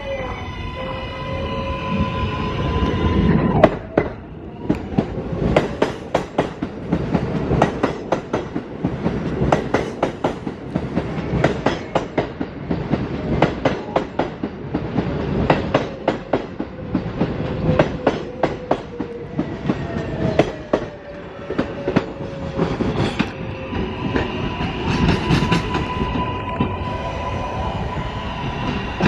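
A New York City subway L train running through the station, its wheels clicking in a fast, steady rhythm over the rail joints. An electric motor whine is heard at the start and returns near the end.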